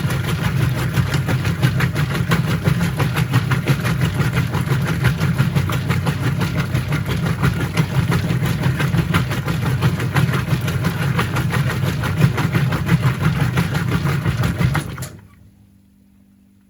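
Whirlpool top-load washing machine running with a steady, fast-pulsing mechanical noise, which stops abruptly about fifteen seconds in, leaving only a faint low hum.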